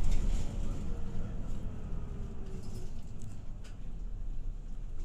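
Low engine and road rumble heard from inside a route bus, fading as the bus slows, with a faint falling whine and a few light rattles.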